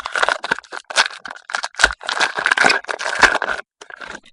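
A foil trading-card pack being handled: its wrapper crinkles and the cards rustle in quick, irregular bursts that stop near the end.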